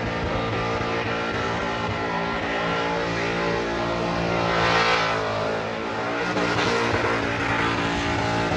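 Burnout car's engine held at high, steady revs while its rear tyres spin, with a dip in revs about five seconds in before it climbs back up.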